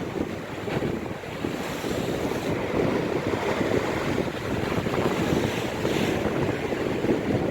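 Storm waves surging and breaking on the shore in rough sea, a steady rush of surf, with strong wind buffeting the microphone.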